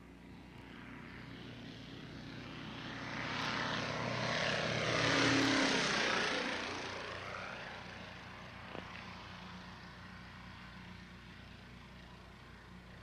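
Propeller airplane flying past: its engine grows louder, peaks about five seconds in, then drops in pitch and fades away.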